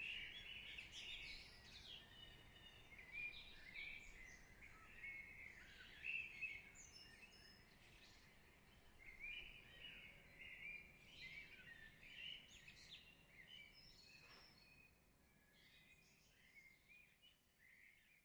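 Faint birdsong: several birds chirping and trilling in quick, overlapping calls over a soft hiss, fading out near the end.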